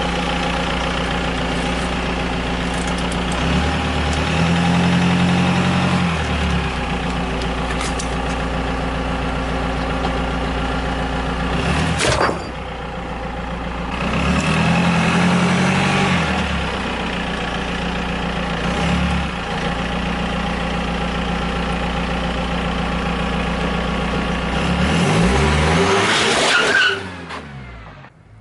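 Car engine running steadily, revving up twice. A single sharp crack comes about twelve seconds in, and the engine sound sweeps in pitch and then cuts off near the end.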